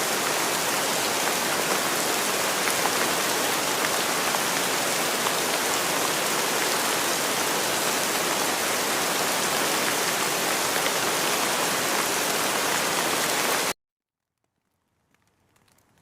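Steady rain falling, with scattered drops tapping. About 14 seconds in it cuts off abruptly to silence, then creeps back in faintly near the end.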